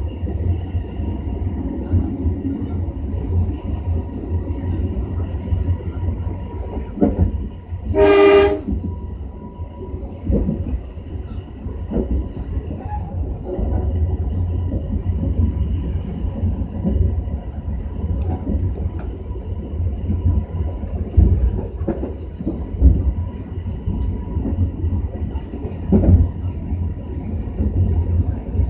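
Inside a passenger carriage of a moving train: a steady low rumble of the wheels on the track with scattered knocks. About eight seconds in comes one short train horn blast, the loudest sound.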